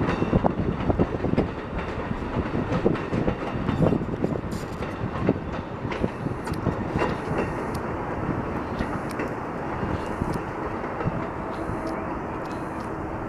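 Amtrak passenger train cars rolling past with a steady rumble, the wheels clicking irregularly over the rail joints; it is a little louder in the first few seconds and eases off later.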